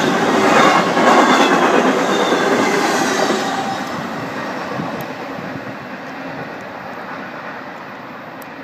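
Fast BNSF intermodal freight train of trailers on flatcars rushing past, its steel wheels clattering over the rail joints. The last cars go by about three seconds in, and the sound fades steadily as the train pulls away.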